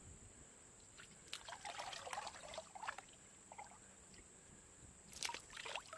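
Faint trickling and splashing of water in a horse trough of rainwater as a dog is wetted down, in a few soft bursts about one to three seconds in and briefly again near the end.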